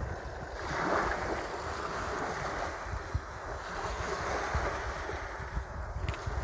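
Sea waves washing in, a steady rushing surf that swells about a second in, with wind buffeting the microphone as a low rumble.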